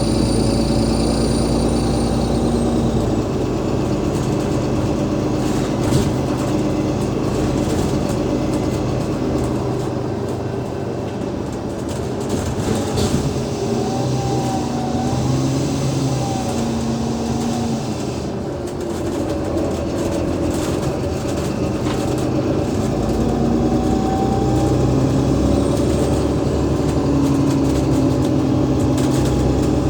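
The Cummins ISL 8.9-litre diesel and ZF Ecolife six-speed automatic of an Alexander Dennis Enviro500 MMC double-decker bus running on the road. A high whine fades away over the first few seconds, and the engine note then dips and rises again as the bus eases off and pulls on.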